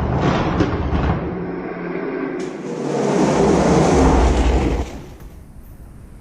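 Hot Wheels diecast monster trucks rolling fast down a plastic drag-strip track: a loud, even rolling rumble that drops off sharply about five seconds in.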